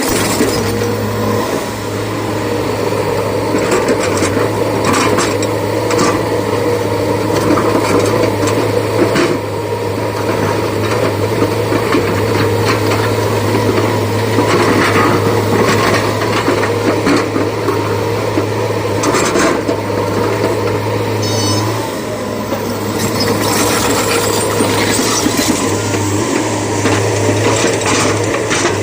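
Excavator working in a quarry: a steady heavy diesel engine run under load, with stone scraping and clattering as the bucket digs and loads rock. The engine tone dips briefly about two-thirds of the way through.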